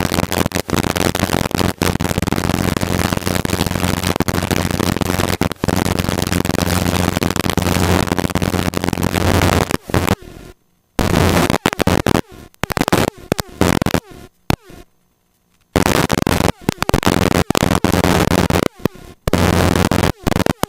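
Helicopter cabin noise in flight: a loud, even hiss with a steady low hum. Between about 10 and 16 seconds in, it cuts abruptly in and out to silence several times.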